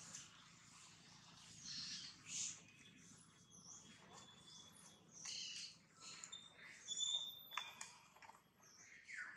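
Faint birdsong: scattered short high chirps and quick sweeping calls, with a couple of thin held whistles in the middle.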